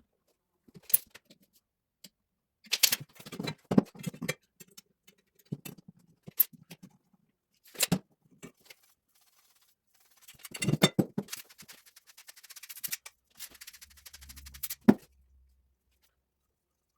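Intermittent clicks, knocks and scrapes of pipe, fittings and hand tools being handled during plumbing work, with a fast run of ticking near the end and sharp knocks about one, four, eight and fifteen seconds in.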